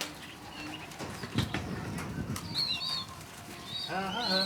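Young racing pigeons (squeakers) squeaking with short high cheeps, mostly in the second half, with a lower call near the end. A few sharp knocks and wing flutters come from the birds being handled.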